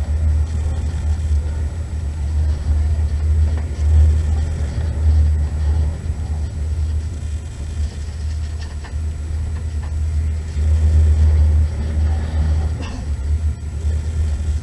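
Moving passenger train heard from inside the carriage: a steady low rumble that swells and eases, with a few faint knocks.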